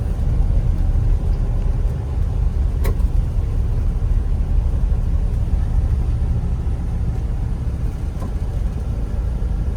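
Steady low rumble of a moving road vehicle, with a single sharp click about three seconds in.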